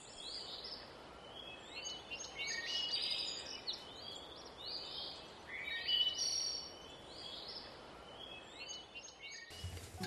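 Songbirds singing in open countryside, a string of short chirping phrases over a faint, even background hiss. Near the end the birdsong gives way abruptly to a different, steadier hiss.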